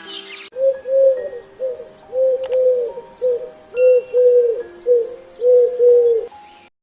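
A pigeon-family bird cooing: about ten short, rounded coos, some in quick pairs, over roughly six seconds, cutting off abruptly near the end.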